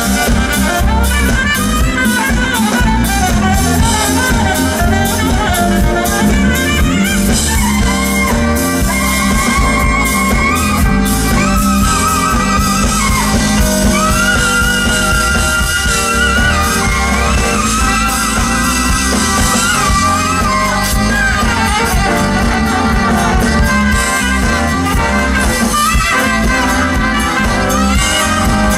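Live smooth jazz band with saxophone lead: the saxophone plays long held notes with a wavering pitch and a few slides between them, over a steady drum beat.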